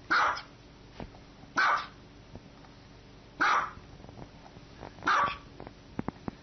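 A dog barking single, evenly spaced barks, four times about every one and a half to two seconds.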